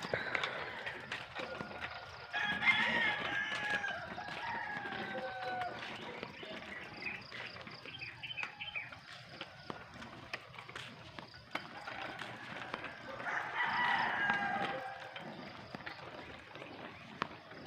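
A rooster crowing twice, each crow a long call that falls in pitch at the end, the first a few seconds in and the second about ten seconds later.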